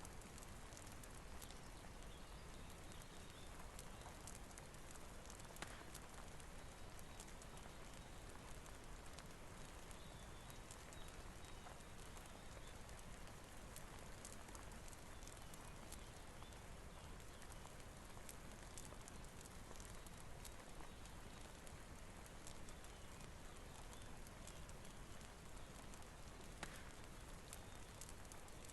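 Faint steady rain with scattered crackles and pops of a wood fire.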